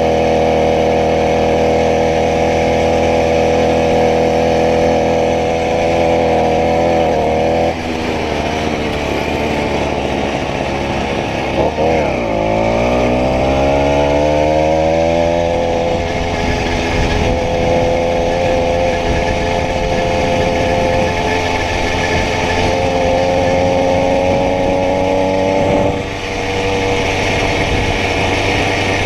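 Small 80cc two-stroke bicycle engine running at high revs. About eight seconds in the revs drop, then dip and climb back up over a few seconds, before it settles into a steady run.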